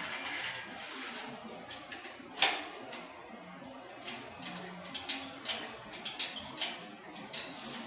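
Irregular light clicks and clinks of small hard objects being handled. One sharp click comes about two and a half seconds in, and a quicker run of them fills the second half.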